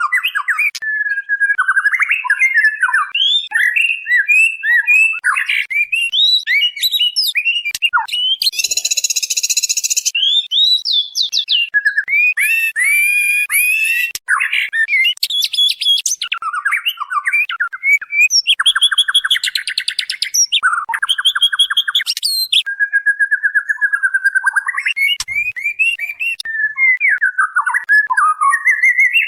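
Female white-rumped shama calling: a continuous run of varied whistled phrases broken by harsh rasping notes and quick rattles, a lure call meant to draw in a male.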